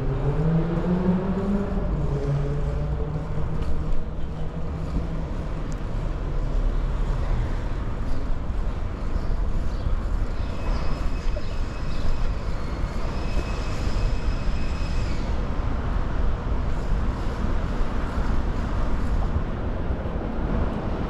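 Street traffic with steady road and wind noise. At the start a motor vehicle's engine revs up and holds for a couple of seconds, and around the middle a high steady squeal sounds twice in a row.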